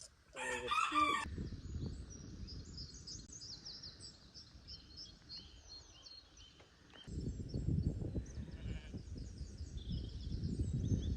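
A single short farm-animal call about half a second in. Then many small high chirps from birds continue over a low rumbling noise, which grows louder about seven seconds in.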